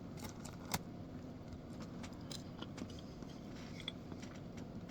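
Faint clicks and scrapes of a utensil working in a takeout cup of mac and cheese, the sharpest click about three-quarters of a second in, over a low steady hum.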